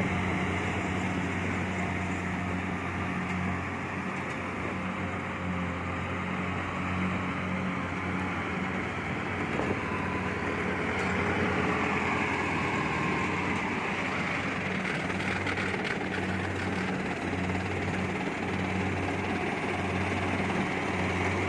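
Kubota DC70 Plus combine harvester running steadily as it cuts rice: a constant diesel engine hum over a continuous wash of machine noise.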